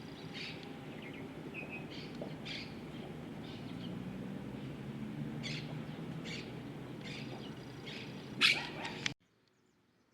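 Wild birds calling with a scattering of short, high chirps over a steady low background rumble. One louder call comes near the end, and then the sound cuts off abruptly.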